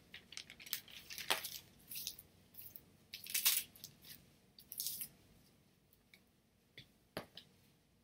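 Irregular small clicks, taps and rustles of acrylic-mounted art pieces being handled and shifted, loudest about three and a half seconds in, then thinning out to an occasional click.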